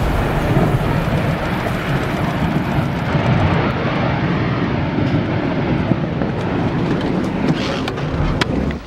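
Loud, steady roar of storm wind buffeting the microphone, heaviest in the low end, with a few sharp knocks near the end; it cuts off suddenly at the very end.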